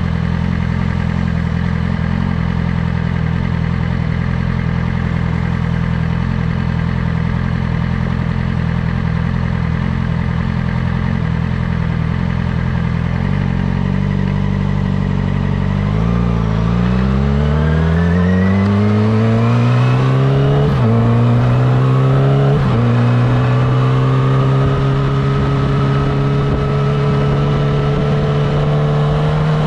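Yamaha R6's inline-four engine idling steadily, then pulling away. The revs climb and drop sharply twice with the upshifts, then hold steady as the bike cruises near the end.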